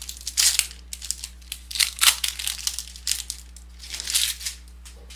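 A trading-card pack wrapper being torn open and crumpled, in several short bursts of crinkling rustle.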